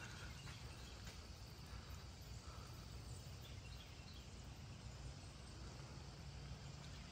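Faint outdoor ambience of light rain sprinkles and scattered drips, over a low steady rumble.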